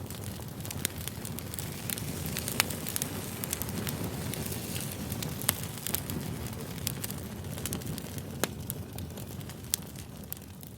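Campfire burning: a steady low rush of flame with frequent sharp crackles and pops of the burning wood, fading out near the end.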